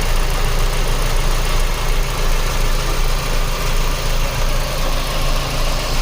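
Hyundai Tiburon engine idling steadily, heard loud and close.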